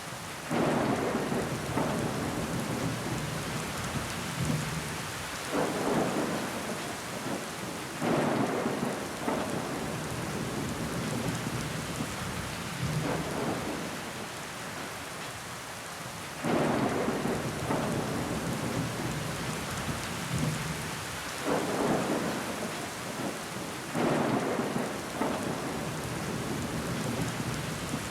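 Steady rain pattering on a window pane with water running down the glass, swelling into louder surges every few seconds.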